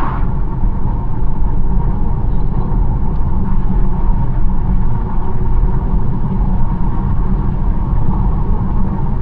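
BMW 1 Series driving at a steady pace, with a continuous low road and engine rumble. The whoosh of a passing vehicle fades out right at the start.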